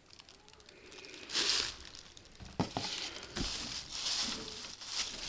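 Plastic packets of plant cuttings crinkling and rustling as they are handled, in irregular bursts with a few light knocks around the middle.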